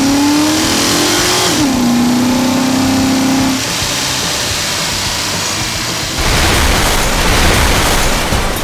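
Cartoon motor-vehicle engine sound effect: the engine revs up with a rising pitch, drops to a steady hum for a couple of seconds, and then gives way to a louder, rough rumble about six seconds in.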